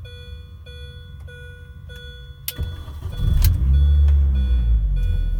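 Heard inside the cabin, the car's warning chime dings about twice a second. A click follows, then the 2004 Mini Cooper S R53's supercharged four-cylinder cranks and catches about three seconds in, its revs flaring up and then settling to a steady idle. The car has a one ball mod on the exhaust.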